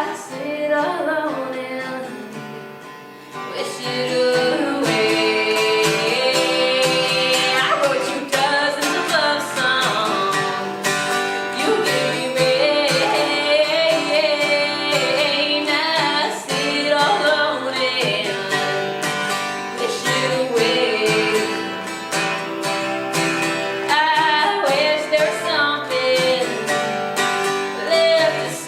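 A woman singing with strummed guitar accompaniment, performed live. It gets louder about three and a half seconds in.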